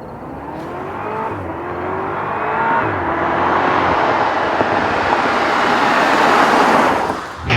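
BMW Alpina B6 Gran Coupe's twin-turbocharged 4.4-litre V8 accelerating hard, its pitch rising and dropping back at two upshifts. It grows steadily louder, then cuts off abruptly near the end.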